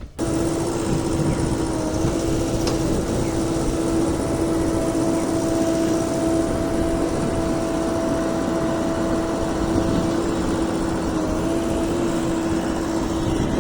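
Heavy diesel machinery engine running steadily under work, with a constant whine held over the engine noise.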